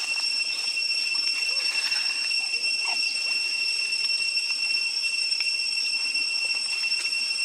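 A steady high-pitched whine made of two unchanging tones, with faint scattered rustles and a brief pitched call about three seconds in.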